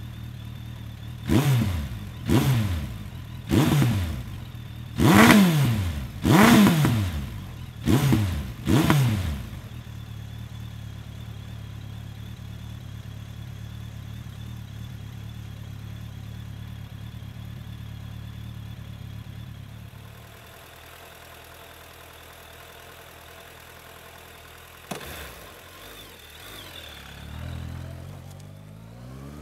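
2003 Suzuki Bandit 1200's inline-four engine through a Delkevic Stubby 14-inch carbon fibre oval muffler, idling steadily, then revved in seven quick throttle blips before settling back to idle. Late on the engine sound drops in level, then after a click the engine rises in pitch as the bike pulls away.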